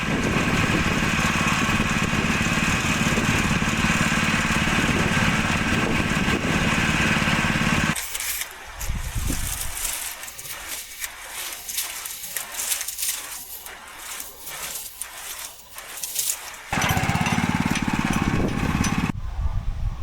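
Small petrol engine running steadily, of the kind on a garden tiller or mower. It drops out about eight seconds in, leaving scattered knocks and clicks, then runs again near the end before cutting off.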